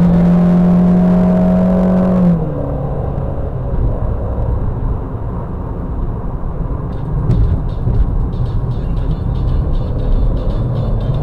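A Skoda Fabia's 1.6 engine heard from inside the cabin, droning steadily under throttle. About two seconds in its pitch drops and it fades, leaving a steady rumble of tyres and road.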